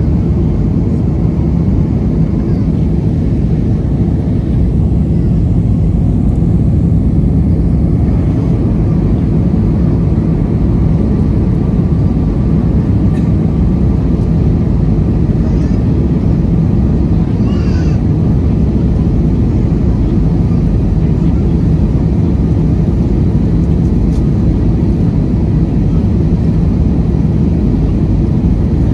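Steady cabin noise of a jet airliner heard from inside: an even low rumble of engines and airflow that holds without change.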